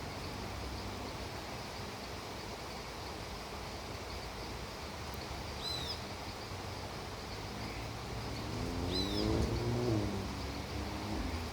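Steady hiss of falling rain with two short bird chirps. Near the end a low pitched drone rises and then falls in pitch as it swells and fades.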